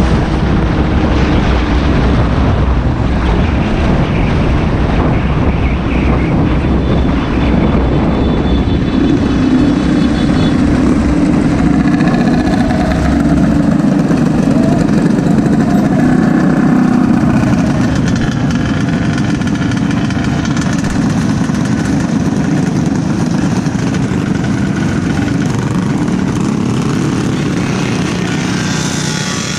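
Small motorbike-type engine running while riding, its pitch rising and falling with the throttle, over a steady rush of noise.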